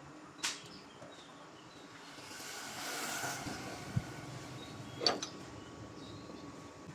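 Sharp metallic clicks of tools or parts being handled during engine work, one about half a second in and another near five seconds, with a hiss that swells and fades in between and a short low thud.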